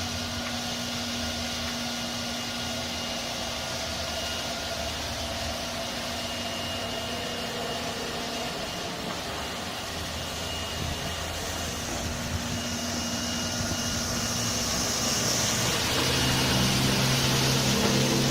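Ride-on floor scrubber running: a steady machine hum with a few steady tones and a hiss, growing louder over the last few seconds.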